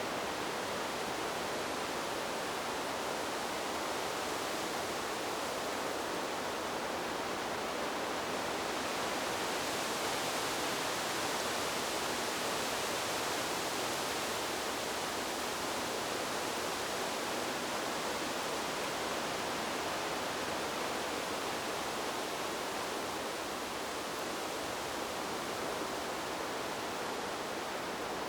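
Wind rushing through tree leaves as a steady, even hiss, swelling slightly brighter about ten seconds in and easing back after.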